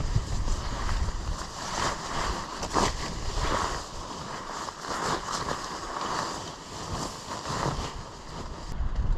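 Strong mountain-top wind gusting over the microphone with a low buffeting rumble, and irregular short rustling sounds through the middle.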